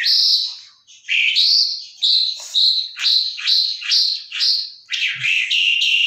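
Small caged bird singing a string of loud, clear whistled notes, each dropping in pitch, about two a second, running into a longer unbroken phrase near the end.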